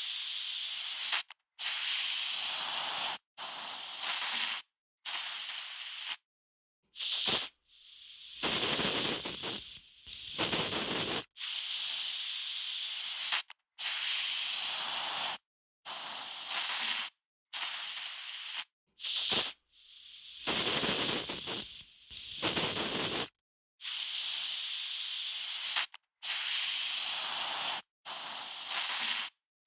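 Aerosol spray can sprayed in a series of hissing bursts, each about one to three seconds long, with short silent gaps between them. A couple of the longer sprays swell fuller partway through.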